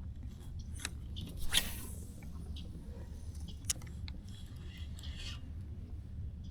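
Light handling sounds in a kayak: scattered clicks and scrapes over a low steady rumble.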